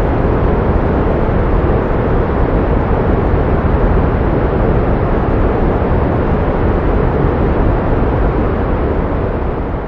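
Steady pink noise: an even, unbroken rushing hiss, fuller in the low end than white noise, used to mask tinnitus. It begins to fade out at the very end.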